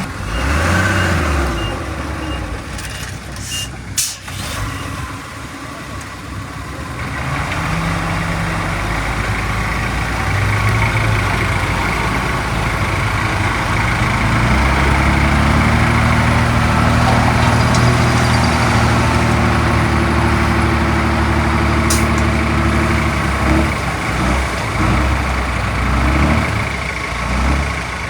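Heavy diesel engines of earthmoving machinery working. A reversing alarm gives a string of short high beeps near the start, and a brief hiss comes about four seconds in. The engine note then builds and holds hard under load through the middle before it eases and wavers near the end.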